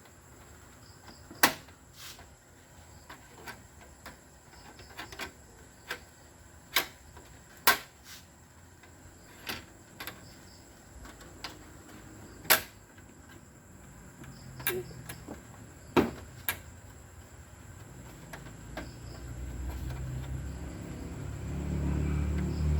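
Sharp clicks and taps, a dozen or so at irregular intervals, from parts being handled and fitted inside an opened LCD TV during backlight strip replacement. A low rumble rises over the last few seconds.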